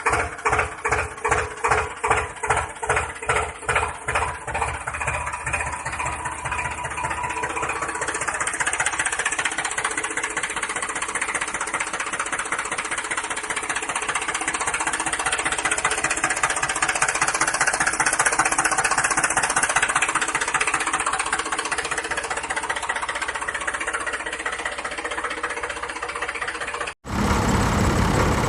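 Engine chugging in slow, even beats, about three a second, then quickening into a steady run. About 27 s in it cuts off sharply, and a louder, different engine sound takes over.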